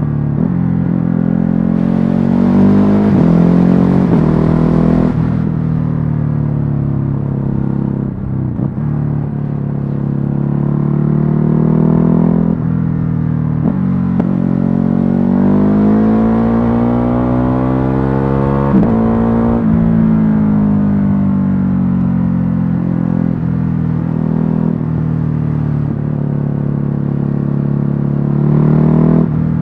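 Stock Ducati Hypermotard 950's twin-cylinder engine riding through the gears: the pitch climbs under throttle and drops sharply at each upshift, with one long rising pull in the middle, then a slow fall as the bike rolls off and slows, and it picks up again near the end.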